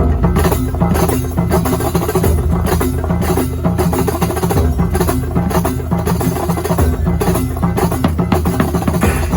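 Kuntulan music from Banyuwangi played loud: dense, driving drumming with a deep, steady bass beat.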